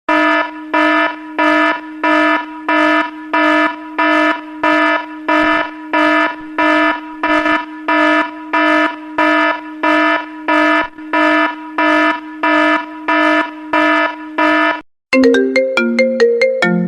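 iPhone ringtone: one electronic beep tone repeating evenly, about two beeps a second, for about fifteen seconds. It stops, and near the end a different melodic iPhone ringtone of quick stepping notes begins.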